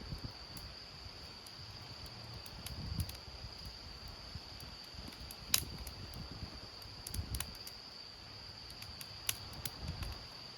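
Stormy wind and rain: wind gusts rumbling low on the microphone every second or two, with scattered sharp taps of drops, the loudest about halfway through. A steady high-pitched tone runs underneath.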